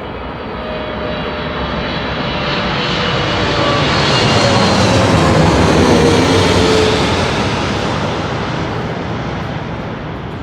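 Airplane flying low overhead on its landing approach, its engine noise swelling to a peak about halfway through and then fading, with a whine that drops in pitch as it passes.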